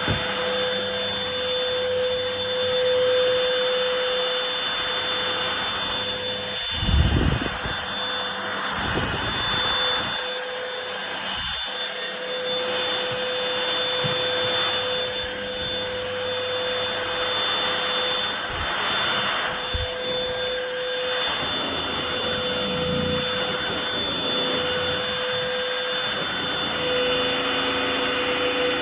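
Vacusion cordless stick vacuum cleaner running steadily with a constant motor whine, with a couple of brief bumps and scraping noises about a quarter and two-fifths of the way through.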